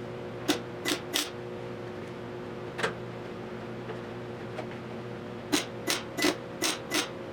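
Short welding tacks on a sheet-steel body repair panel: three quick tacks, a single one, then a run of five about a third of a second apart, each a brief crackling burst, over a steady hum.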